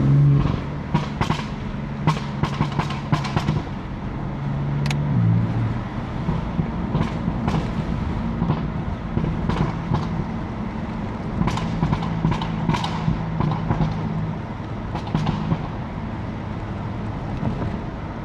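BMW F80 M3's twin-turbo straight-six dropping off a hard pull about half a second in, then running on the overrun with a steady low drone while the exhaust pops and crackles irregularly many times.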